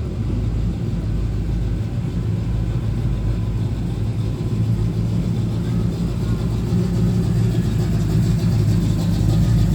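A truck engine running with a low, steady hum, growing louder about seven seconds in.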